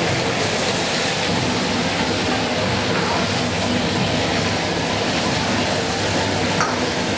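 Chicken, potatoes and a tomato and red pepper base sizzling steadily in a hot wok, stirred with a metal ladle.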